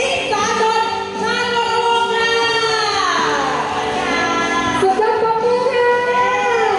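Music with a high voice singing long held notes; about three seconds in, one note slides down in pitch, and a new phrase starts about five seconds in.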